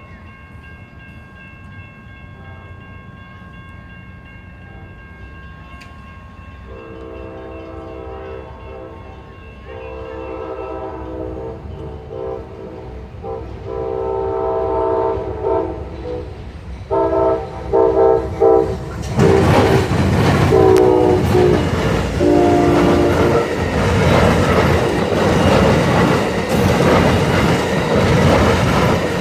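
Amtrak passenger train led by a P42DC Genesis diesel locomotive approaching and sounding its air horn chord in several blasts. Then it passes close by, loud, with wheels clattering over the rails.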